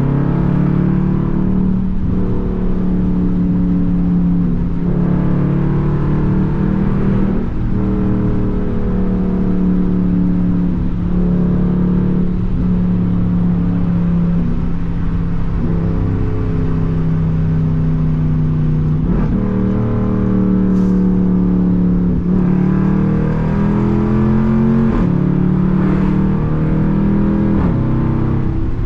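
Straight-piped Jeep Grand Cherokee SRT's 6.4-litre HEMI V8 exhaust under way. The engine note rises and then steps down again and again as the car accelerates and shifts through the gears.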